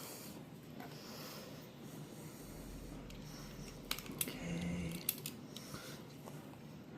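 Faint handling and cutting sounds of a utility knife working through a sheet of 1/8-inch rubber, with a few sharp clicks and a short scrape about four to five seconds in.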